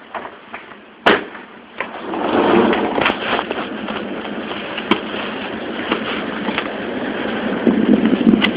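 A sharp click about a second in, like a door latch, then a steady rush of wind buffeting the phone's microphone, with scattered small clicks through it.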